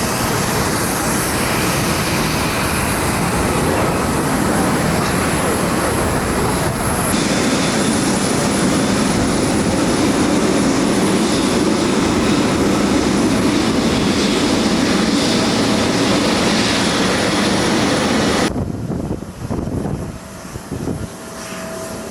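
Loud, steady roar of jet airliner engines. The sound shifts abruptly about seven seconds in. Near the end it drops off suddenly to a much quieter background with a faint hum.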